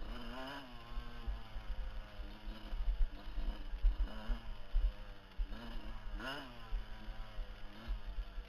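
Off-road motorcycle engine revving up and down in several surges as the bike is ridden over a rough trail, with a heavy, uneven low rumble underneath.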